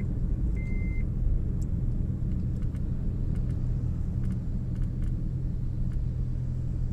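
Steady low rumble of vehicle traffic on the road, with one short high beep just under a second in.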